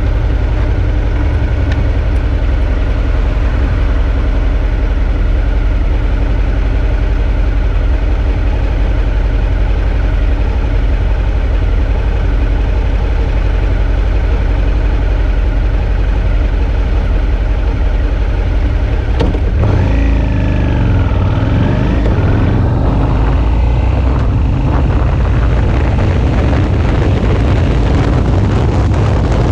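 Suzuki V-Strom 650's 645 cc V-twin engine running at a steady cruise, with wind rushing past. About two-thirds of the way through the engine note dips and then climbs again, and the wind noise grows toward the end.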